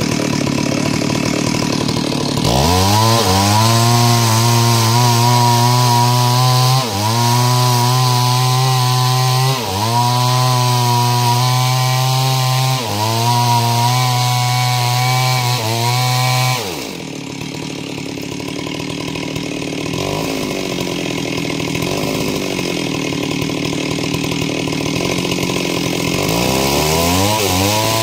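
Stihl two-stroke chainsaw revving to full throttle and cutting wood lengthwise, as in ripping planks. Its pitch sags briefly under load four times. It falls back to idle partway through, then revs up again near the end.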